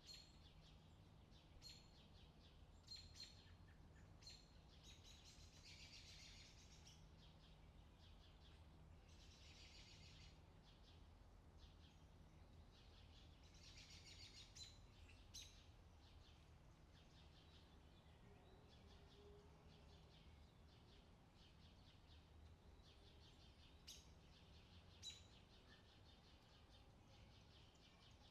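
Faint outdoor summer ambience: birds chirping with short calls and a few longer trills, over a low steady hum.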